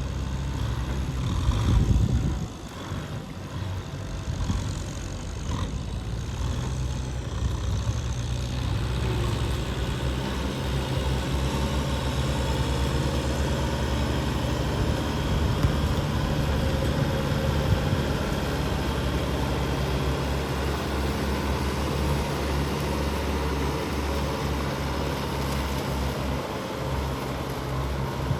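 Tractor engine running steadily under load, with a brief louder low rumble about two seconds in.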